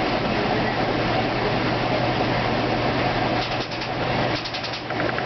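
2008 Kenmore washing machine in its spin cycle: a steady whir with an even hum. Past the middle a fast, even ticking joins in and the sound dips slightly.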